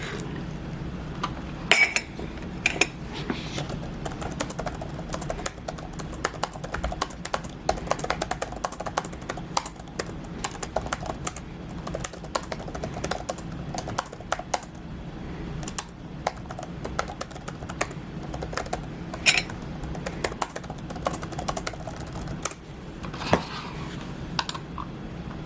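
Many light clicks and taps in quick, irregular succession, with a few louder knocks, over a steady low hum.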